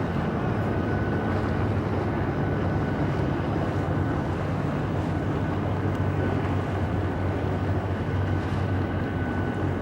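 Steady low engine drone with an even hum and a faint high steady tone, level throughout.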